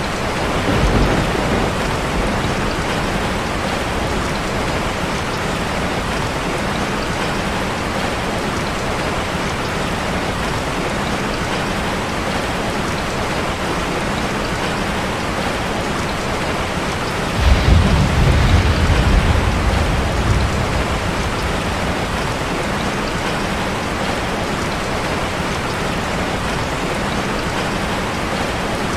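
Steady rain drumming on a metal roof, with a low rumble of thunder about 17 seconds in that lasts about three seconds, and a brief fainter rumble about a second in.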